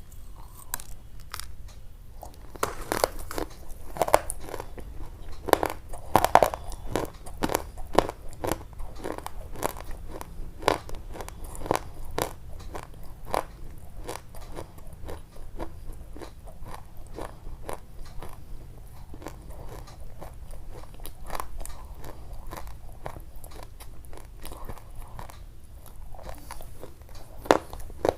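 Close-up chewing and crunching of something crisp: an irregular run of crunches, densest and loudest in the first half, thinning out later, with one last sharp crunch near the end.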